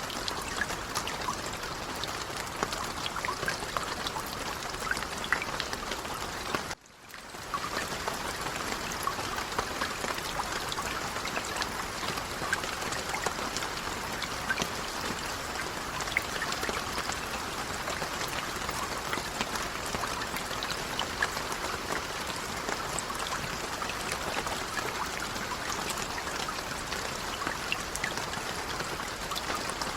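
Light rain falling steadily, an even hiss sprinkled with many small drop ticks. The sound cuts out briefly about seven seconds in, then resumes.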